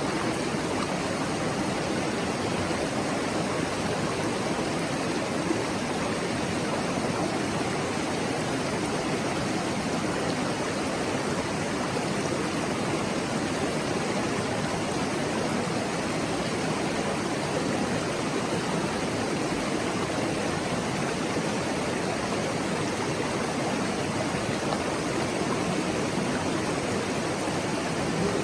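Clear mountain stream running, a steady murmur of flowing water.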